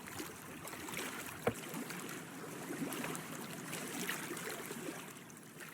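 Water lapping and trickling against a fishing boat's hull, with one sharp knock about a second and a half in.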